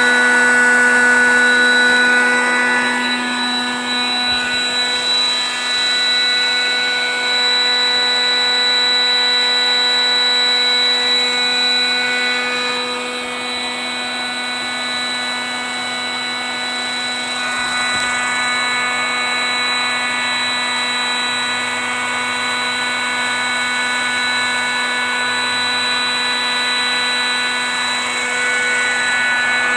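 Small high-speed electric air pump running steadily with a constant whine, drawing the air out of an inflated truck bed air mattress.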